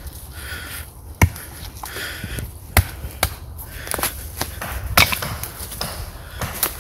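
Burning wood at a campfire crackling, with a handful of sharp, irregular cracks and snaps over a low hiss.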